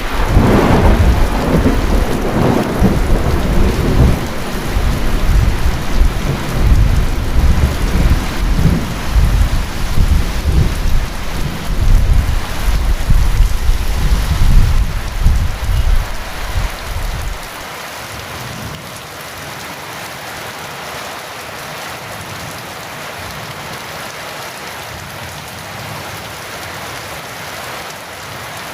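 Heavy rain falling steadily, with a long roll of thunder from the start that rumbles for about seventeen seconds and then dies away, leaving only the rain.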